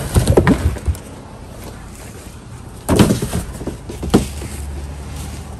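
Rummaging through a trash bin: short rustles and clunks of handled items, loudest about three seconds in, over a steady low rumble.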